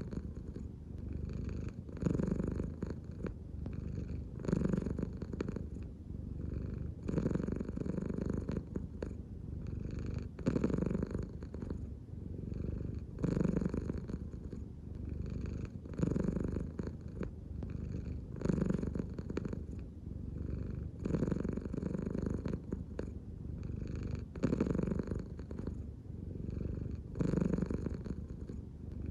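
American Shorthair cat purring steadily, the purr swelling and easing with each breath about every two and a half to three seconds.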